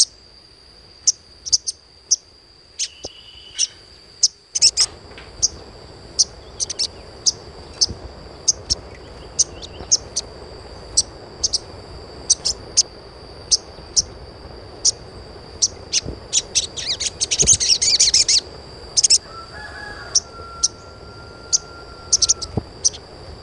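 Sogon (sogok ontong) birds chirping: short, sharp, high chirps repeated about once or twice a second. About three-quarters of the way in comes a quick burst of dense twittering, followed by one short held whistle.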